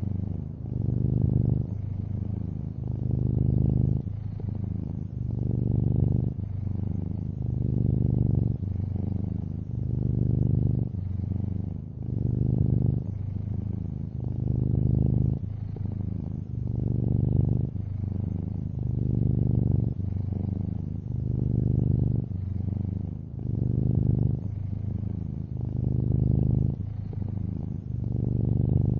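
Long-haired orange tabby cat purring close up, a low steady rumble that swells and eases about once every two seconds.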